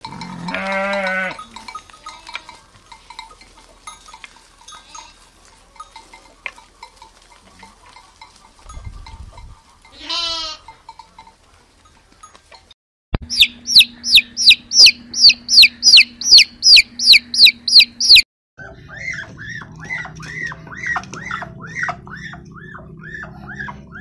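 Sheep and lambs bleating, with one wavering bleat at the start and another rising one about ten seconds in. After a sudden cut, an animal gives loud, rapid, high-pitched calls about three times a second for about five seconds. Then comes a run of lower repeated calls about twice a second over a low hum.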